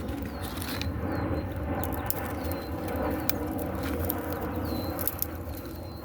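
A bird repeating a short high chirp every second or so, over a steady low rumble with scattered clicks.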